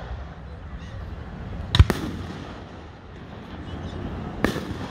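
Fireworks bursting: a loud double bang about two seconds in and another sharp bang near the end, over a steady low rumble from the display.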